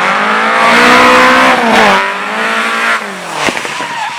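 Race car engine revving hard, easing off about two seconds in, then rising again and dropping with a single sharp pop near the end, over a hiss of tyre noise.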